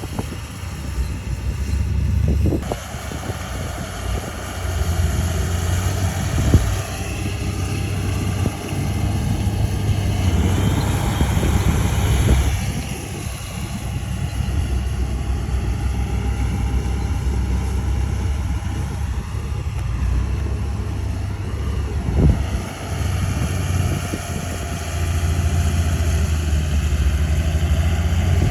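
Bulldozer's diesel engine running steadily, rising and falling in pitch for a few seconds near the middle, with a few sharp knocks.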